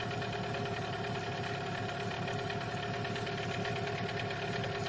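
Outboard boat motor idling steadily during its break-in run.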